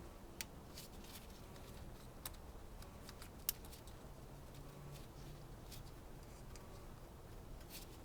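Faint, scattered small clicks and taps of engine parts and connectors being handled during work on a four-cylinder engine's fuel injectors, the sharpest click about three and a half seconds in, over a low steady hum.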